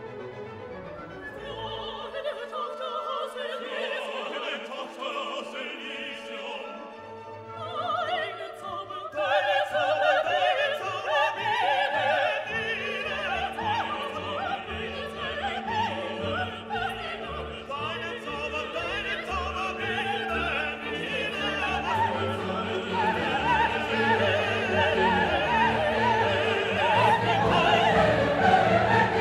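Classical orchestral music with operatic singing, starting quietly and swelling fuller and louder about nine seconds in.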